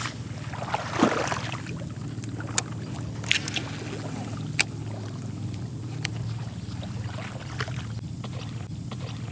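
A hooked snakehead splashing in the water during the fight, with a burst of splashing about a second in, over a steady low hum and a few sharp clicks.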